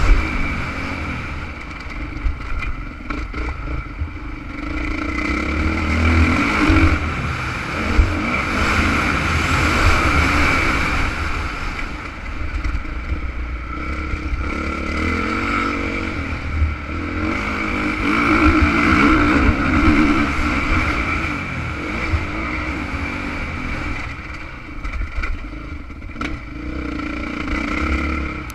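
Honda CRF450 motocross bike's four-stroke single-cylinder engine running hard, its revs rising and falling in waves every few seconds as the rider accelerates and backs off, over a heavy low rumble.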